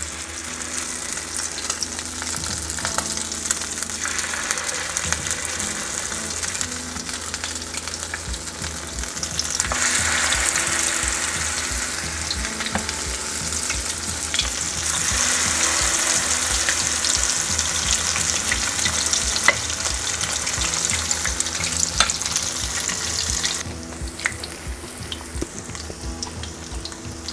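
Cornbread batter frying in hot corn oil in a cast iron skillet: a steady sizzle that swells louder about ten seconds in and again around fifteen seconds, then eases off a few seconds before the end, with a few light clicks.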